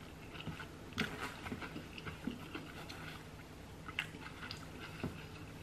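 Close-up chewing of a bite of cheeseburger: faint, scattered wet mouth clicks and smacks.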